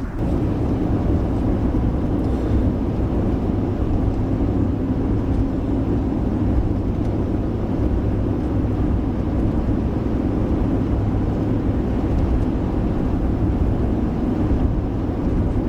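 Steady road and engine noise heard inside a moving pickup truck, a constant low, even noise with no distinct events.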